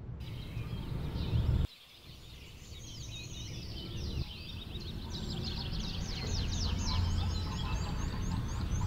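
Small birds chirping and twittering in quick, high, falling notes that grow denser toward the end, over a low steady rumble.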